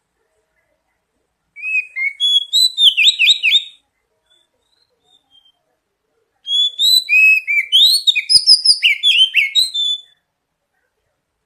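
Oriental magpie-robin (kacer) song: two phrases of rapid, varied high notes that slide up and down in pitch. The first starts about a second and a half in and lasts about two seconds; the second, longer, runs for about four seconds in the second half, with silence between them.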